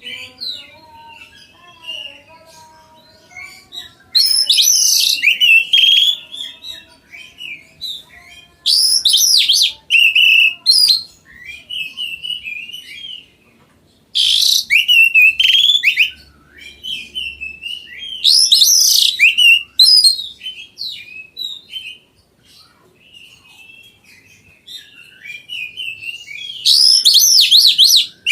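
Oriental magpie-robin (kacer) singing: about five loud phrases of rapid, high, sweeping whistles a few seconds apart, with quieter twittering between them.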